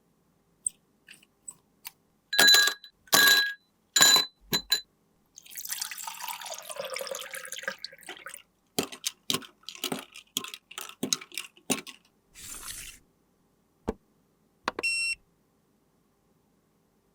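Small makeup containers and tools being handled: a few loud ringing taps, a stretch of hissing noise, then a quick run of small clicks, with a short ringing tone near the end.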